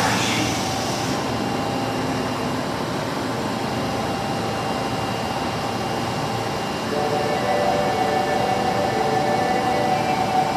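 Osaka Metro Tanimachi Line subway train: a short hiss in the first second, then steady running noise, with a steady hum of several tones joining about seven seconds in.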